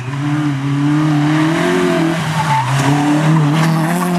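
Small rally hatchback's engine revving hard under load, its pitch climbing, dipping briefly a little past halfway, then climbing again.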